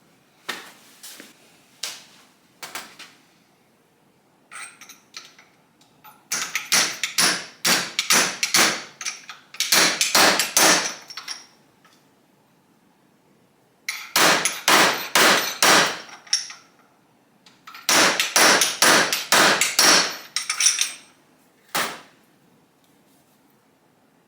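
Hammering: a hammer striking repeatedly in three bursts of quick blows, several a second, with a few single knocks between.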